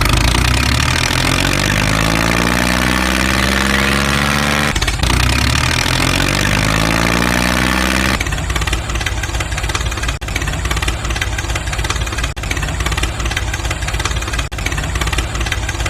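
Engine-like running sound. Its pitch falls in two similar sweeps, then it turns to a rougher, rattling run with many quick ticks from about eight seconds in.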